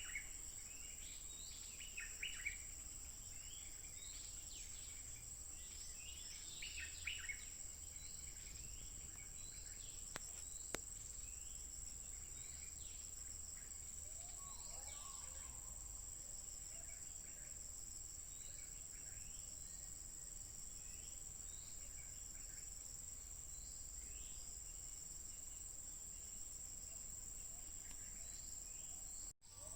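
Stripe-throated bulbul calling in short bursts of quick notes, loudest in the first several seconds and fainter later, over a steady high-pitched insect drone. The sound cuts out briefly near the end.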